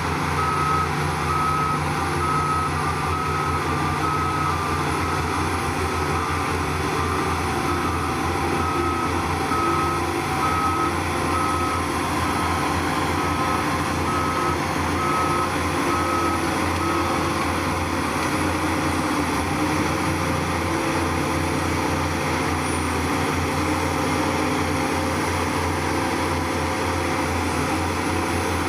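Heavy diesel machine's reversing alarm beeping steadily, roughly once a second, over the low steady running of its engine. The beeping stops about 17 seconds in and the engine keeps running.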